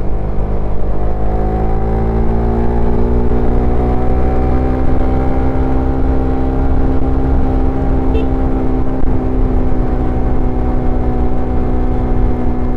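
Suzuki Satria FU Fi motorcycle's single-cylinder engine and exhaust under way, its pitch climbing as it accelerates over the first few seconds, then holding steady at a cruising speed.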